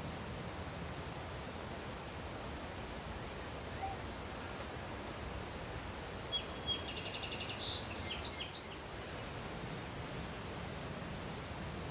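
A small bird gives a brief chattering call, a quick run of high chirps lasting about two seconds just past the middle. Underneath runs a steady low rush of wind and a faint high ticking about twice a second.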